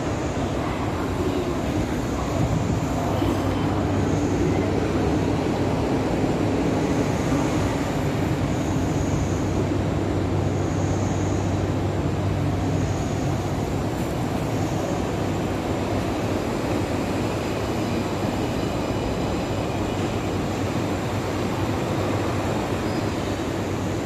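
MTR IKK electric train running through a station platform: a steady rumble with a low hum and faint high whines in the first half.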